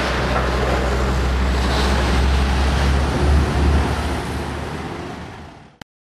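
Street traffic noise with a steady low rumble, fading and then cutting off abruptly near the end.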